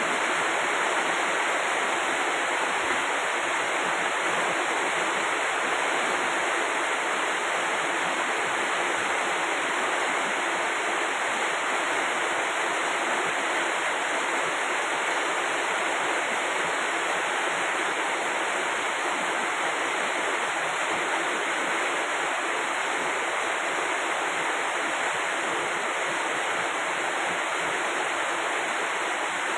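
Steady heavy rain: a continuous, even hiss with no breaks.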